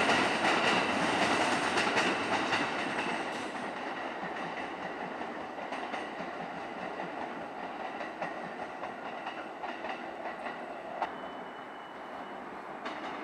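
JR Keiyo Line commuter electric train running on the tracks: loud wheel and running noise for the first few seconds, then a quieter steady rumble with light wheel clatter as a train comes in over the points. A short, high, steady squeal sounds about eleven seconds in.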